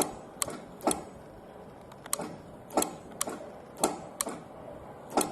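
About nine sharp clicks and taps at uneven intervals, from small plastic and metal parts in a car's fuse box being handled while a blown fuse is checked.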